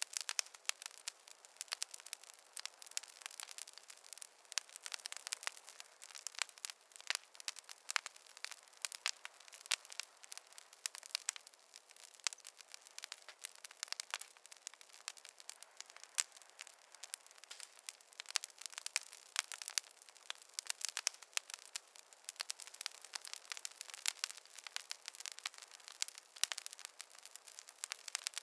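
Wood fire crackling in a fireplace: a dense, irregular run of sharp pops and snaps from the burning logs over a faint hiss, with no low rumble.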